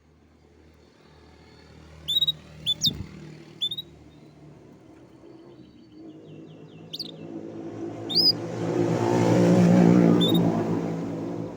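A road vehicle passes, its engine and road noise swelling to a peak near the end and then easing off. Over it a canary gives a few short, sharp chirps, spaced out, the last about eight seconds in.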